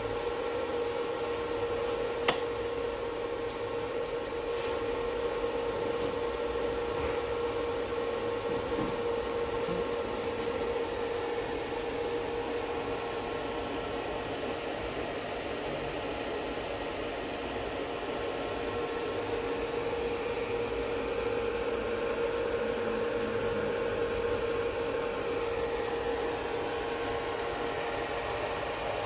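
A repaired Hyundai N300 variable-frequency drive running on test, with the motor and fan it drives. The sound is a steady electrical whine and hum with one strong mid-pitched tone over a noise haze. There is a single sharp click just over two seconds in, and a faint high whistle joins about seven seconds in.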